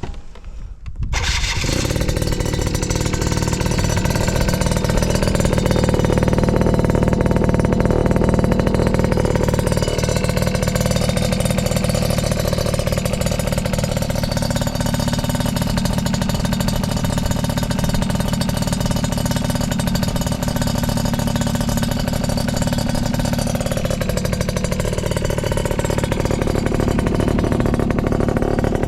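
Yamaha Champ RS 50cc two-stroke scooter with an expansion-chamber exhaust catching about a second in, then idling steadily with small rises and dips in engine speed. It runs with no abnormal noises.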